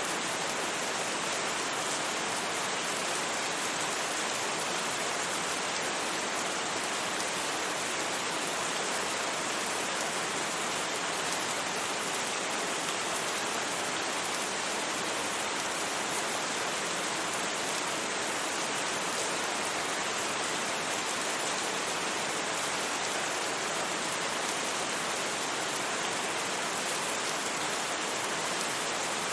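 Steady, even rain hiss with no single drops or thunder standing out.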